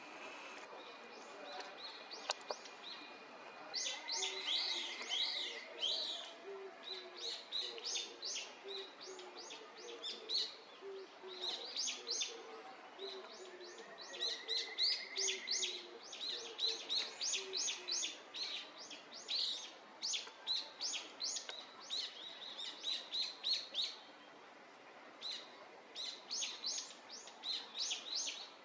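Small songbirds chirping in a fast, busy series of short high notes that begins about four seconds in, with a couple of short buzzy trills mixed in and a brief pause near the end.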